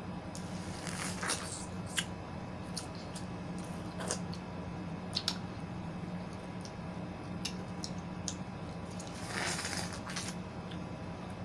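Close-up wet chewing and squishing of juicy yellow watermelon and pineapple, with scattered short clicks and a longer wet smear near the end. A steady low hum lies underneath.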